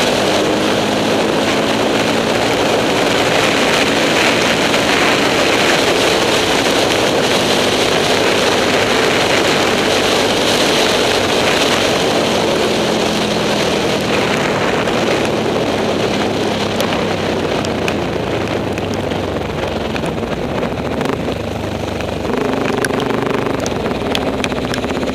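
Enduro motorcycle engine running steadily under way, easing off near the end toward idle.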